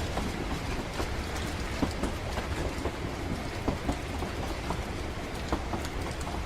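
Steady low rumble of a moving train, with rain pattering and many small drop ticks scattered over it.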